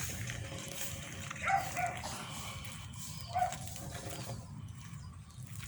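A dog barking three times, two barks in quick succession and then one more, over a steady low rumble.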